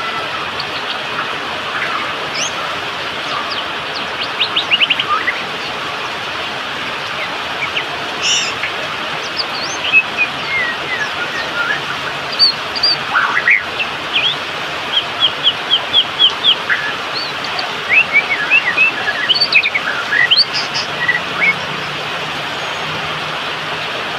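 White-rumped shama (murai batu) singing: scattered phrases of quick whistled sweeps and rapid runs of short notes, busiest in the second half, over a steady background hiss.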